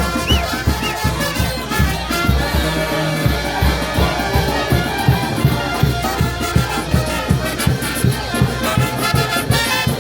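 Brass band playing, with trumpets and trombones over a steady, regular drum beat.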